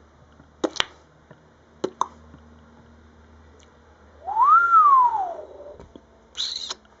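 A single long whistle that glides up in pitch and then back down. A few light clicks come before it, and there is a short high squeak near the end.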